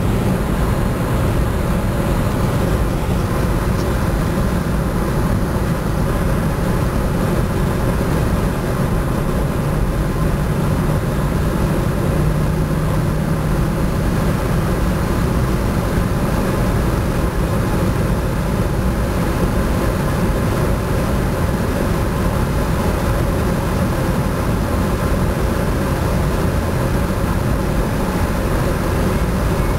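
Opel Corsa OPC's turbocharged four-cylinder engine pulling hard at high revs in top gear near 200 km/h, heard from inside the cabin as a steady drone mixed with a dense rushing noise.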